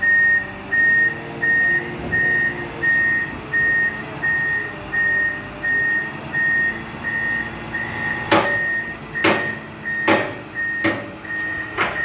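A construction machine's backup alarm beeping steadily, about two beeps a second, over the low hum of its engine. Five sharp knocks, clanks of metal, sound in the last few seconds.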